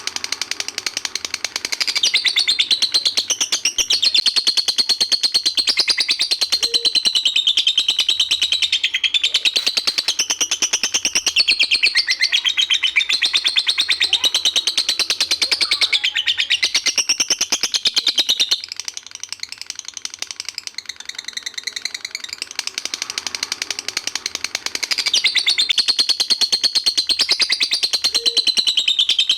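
Recorded songbird masteran (a tutor track for contest birds): continuous rapid chattering and trilling song, dipping quieter for several seconds past the middle before picking up again.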